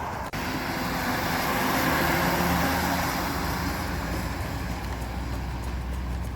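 Road traffic passing: a vehicle's engine and tyre noise swells to its loudest about two seconds in, then slowly fades.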